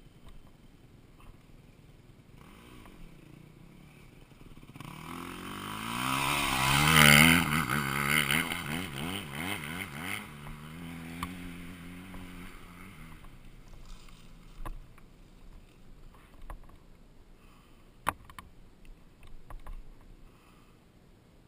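A dirt bike's engine revving as the bike goes by, loudest about seven seconds in and then fading away. A single sharp click comes near the end.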